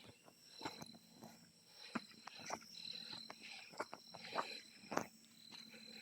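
Steady high-pitched insect calls hold on several tones, with irregular crunching and rustling footsteps on leaf litter along a forest trail.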